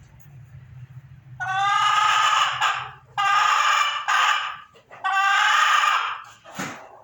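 A Leghorn hen calling loudly: three long drawn-out calls of over a second each, then a short falling note near the end.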